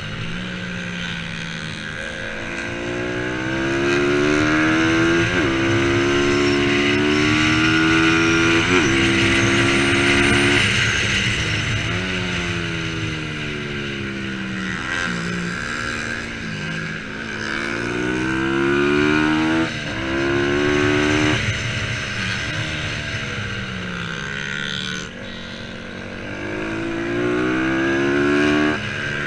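Racing motorcycle engines revving hard. The pitch climbs through each gear and drops sharply at each shift, many times over, and at times a second engine note overlaps the first.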